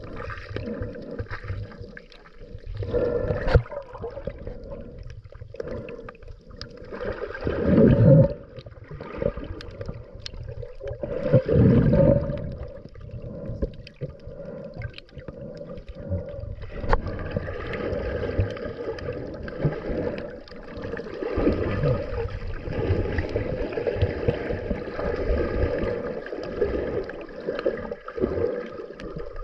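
Scuba diver breathing through a regulator, heard underwater: hissing breaths and gurgling bursts of exhaled bubbles, the loudest rushes about 8 and 12 seconds in, then steadier bubbling through the second half.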